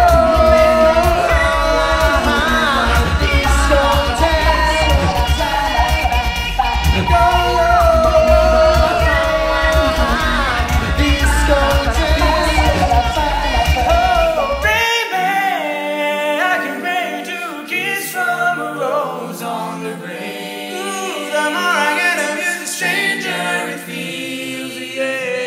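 A cappella vocal group singing live in close harmony, a medley of pop and rock covers with no instruments. A deep vocal bass part drives the first half, then drops out suddenly about fifteen seconds in, leaving quieter, sparser harmonies.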